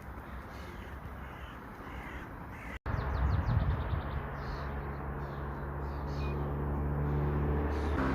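Crows cawing outdoors. After a cut about three seconds in, a steady low engine hum sets in underneath.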